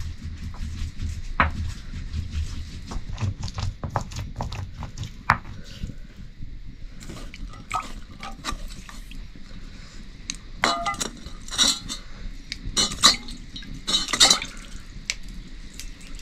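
Metal pots and utensils knocking and clinking as food is handled, a scatter of short knocks with a low rumble underneath in the first few seconds. Louder, ringing metal clinks come in a cluster in the second half.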